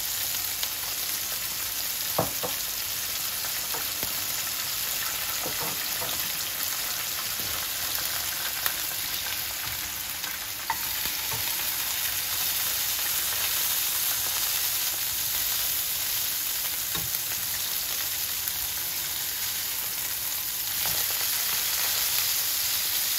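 Chicken patties and chips frying in oil in two pans on a gas stove: a steady sizzle with a few light clicks. The sizzle grows a little louder near the end.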